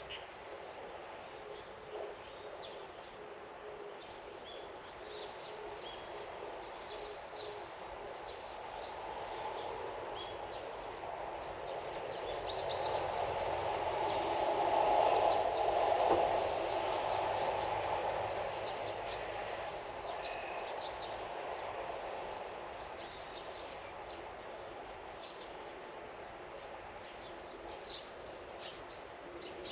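Outdoor garden ambience with scattered short bird chirps over a steady background. A distant broad rumble swells to a peak about halfway through, then fades away, like something passing by.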